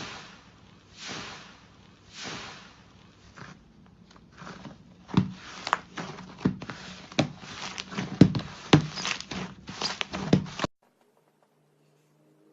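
Slime being squished and pressed by hand: a few soft squelching swells, then a quick run of sharp pops and clicks as air pockets burst. The sound stops abruptly near the end.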